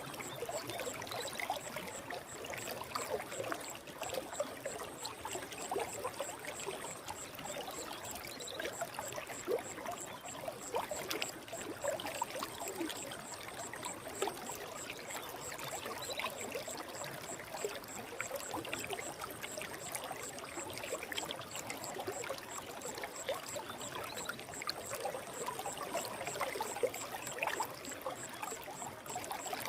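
Forest stream flowing steadily: constant babbling and trickling water with many small splashes.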